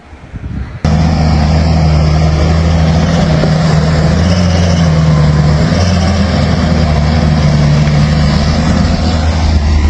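A motor engine running steadily at an even pitch, cutting in abruptly about a second in.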